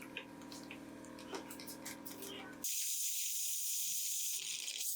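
Dental treatment sounds: a steady low hum with small clicks. About two and a half seconds in, a loud hiss of spraying water and air from a dental air-water syringe starts suddenly.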